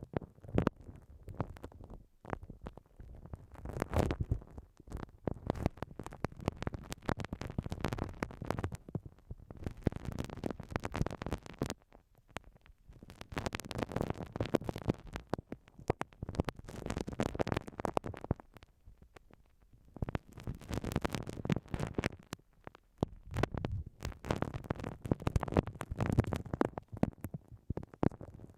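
A spiky uni-bouzu ball rubbed and pressed against a binaural microphone, making dense crackling, scratching strokes with a few short pauses.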